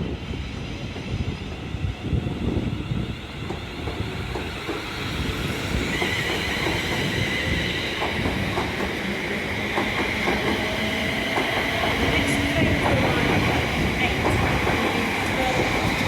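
A train running through the station: a steady rumble of wheels on track that slowly grows louder, with a high steady whine joining about six seconds in and scattered clicks from the rails.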